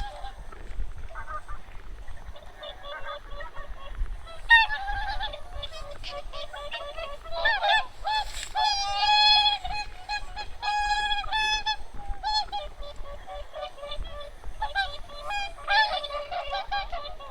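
A flock of wild geese and swans honking, many calls overlapping. The calling is thickest in the middle and again near the end.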